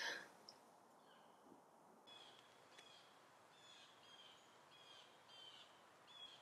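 Faint, high bird chirps repeated about once or twice a second over near silence.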